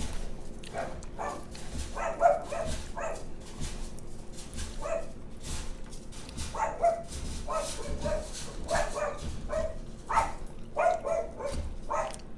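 A dog barking in many short calls, often two or three in quick succession, an excited pet that will not settle.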